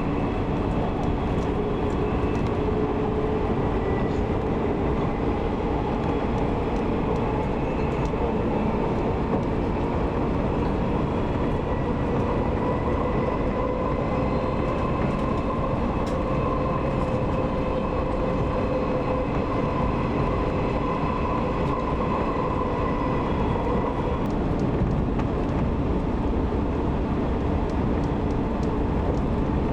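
JR 185 series electric train running at speed, heard from inside the carriage: a steady rumble of wheels on rails with a faint whine that drifts slowly in pitch.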